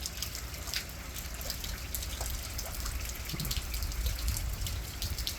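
Steady rain falling, with many small drips and splashes ticking close by and a low rumble underneath that swells about four seconds in.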